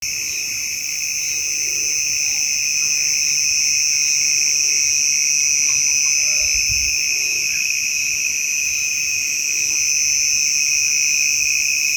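A steady chorus of insects: a continuous, shrill, high-pitched drone that holds level throughout, with a few faint chirps underneath.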